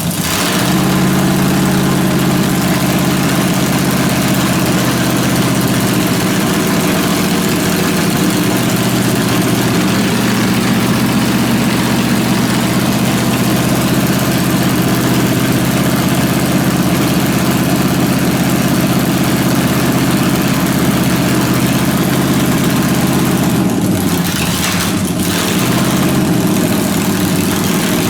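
Spitfire's engine idling steadily, freshly started, with a brief dip in its note about three-quarters of the way through.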